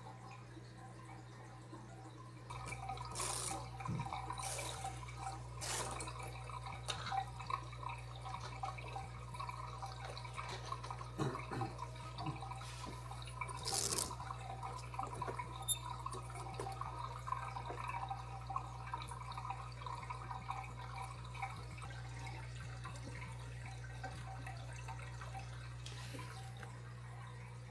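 Aquarium water trickling and dripping over a steady low hum, with scattered splashes and knocks through the first half.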